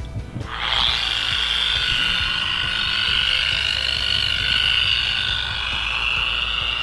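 Small high-speed electric buffer starting up about half a second in, then running steadily with a high whine as its pad buffs an aircraft exhaust stack.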